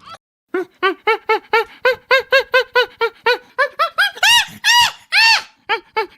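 An animal calling in a rapid series of short calls, about four a second, each rising and falling in pitch, with a few longer, louder calls in the middle.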